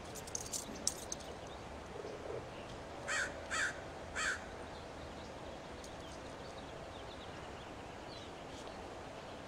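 A bird cawing three times, about half a second apart, over a faint steady outdoor background.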